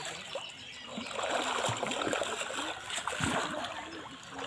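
Shallow pond water splashing and sloshing as it is stirred by hand, heaviest from about a second in until shortly before the end.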